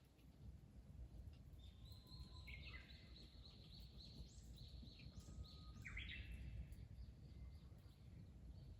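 A bird calling in a run of quick chirping notes for about four seconds, over a faint low outdoor rumble.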